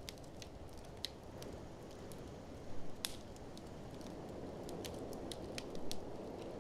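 Wood fire in a fireplace crackling, with scattered sharp clicks and louder pops a little before 3 seconds in and again near 6 seconds, over a steady low rush of blizzard wind.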